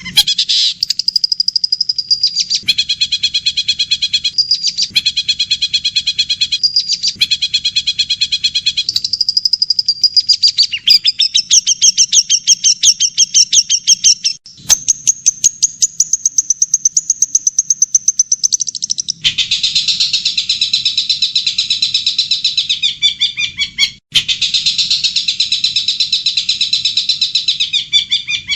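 Recorded songbird song played for tutoring a caged bird: long trains of rapid, high chirps and trills repeated many times a second. The pattern changes abruptly several times as one recorded song gives way to another.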